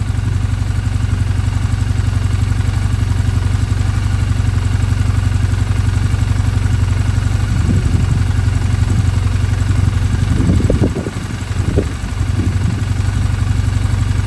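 Triumph Bonneville 790's air-cooled parallel-twin engine idling steadily. Its pitch rises and falls briefly about eight seconds in and again a few times near the end, as if the throttle is being blipped.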